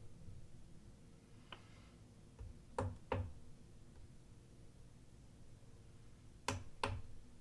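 Two pairs of sharp clicks, each pair about a third of a second apart, with a fainter click before them, over a faint steady hum: small hard objects being handled on a work surface.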